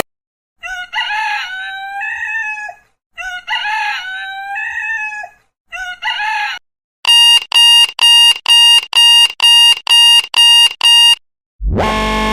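Alarm-clock app ringtones: a recorded rooster crowing twice, with a third crow cut off short, then an electronic alarm beeping in a steady high tone about two and a half times a second. A new synth alarm tone starts near the end.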